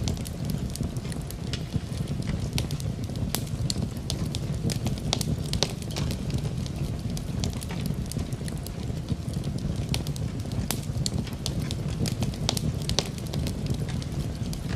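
Wood fire crackling in a fireplace, with frequent irregular sharp pops and snaps over a steady low rumble of rain.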